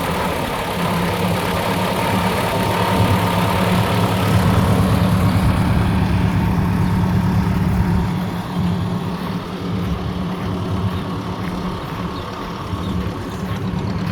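1956 Ford 860 utility tractor's engine idling steadily, a little quieter from about eight seconds in.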